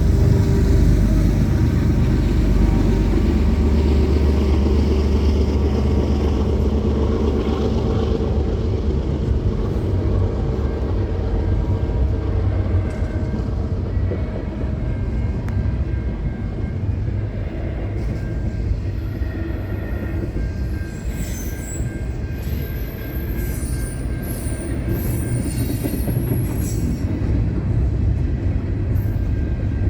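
Intermodal freight train rolling past: a steady rumble of wheels on rail, deepest in the first several seconds, with high-pitched wheel squeals coming and going in the second half.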